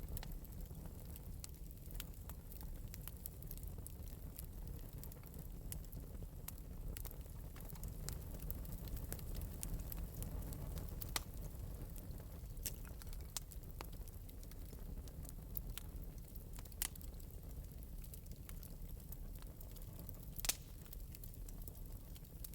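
Wood fire burning in an open metal fireplace, a steady low rumble of the flames with scattered light crackles and pops, one sharper pop near the end.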